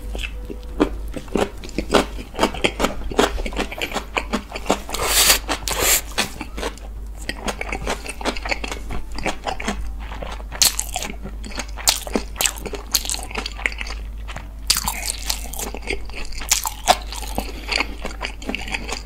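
Close-miked chewing of a mouthful of kimbap: a steady, irregular run of crunches and mouth clicks, with louder bursts of crunching now and then.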